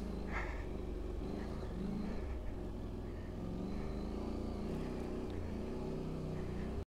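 KTM 790 Adventure's parallel-twin engine running as the bike rides along a dirt track, its revs rising and easing off, heard from the riding position; the sound cuts off abruptly at the very end.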